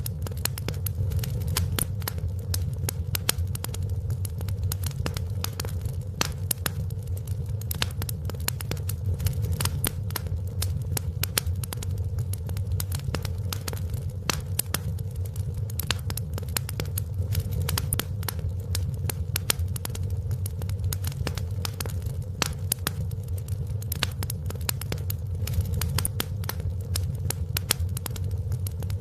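Wood fire in a fireplace crackling and popping: many sharp crackles in quick, irregular succession over a steady low rumble.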